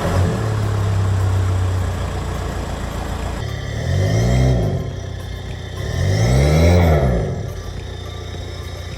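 Audi A4 B7's 1.9 TDI PD four-cylinder diesel running with the rear silencer removed and a broken middle silencer, a huge exhaust leak. It idles loudly at first, then is revved up and back down twice, about four and six and a half seconds in. The engine has a faulty injector and runs rough.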